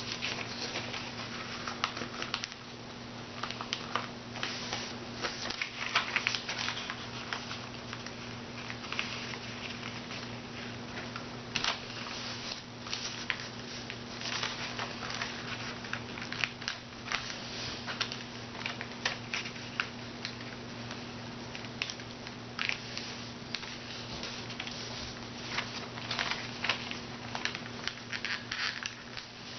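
A sheet of paper being handled, folded and creased by hand: irregular rustling, crinkling and small taps, over a steady low electrical hum.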